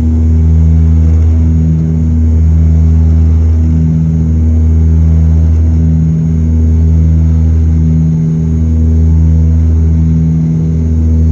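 Cabin drone of a DHC-8-200 turboprop's Pratt & Whitney PW123 engines and propellers, heard from a seat beside the propeller: a loud, steady low hum with a slow beat that swells and fades about every two seconds.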